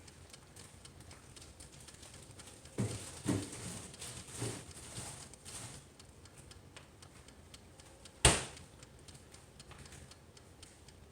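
Light knocks and clatter of kitchen items being handled, followed by one sharp click about eight seconds in.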